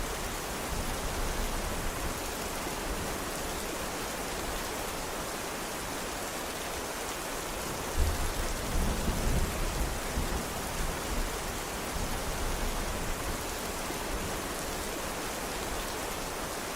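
Steady, dense rainfall hissing evenly. About halfway through comes a sudden low rumble that dies away over a couple of seconds.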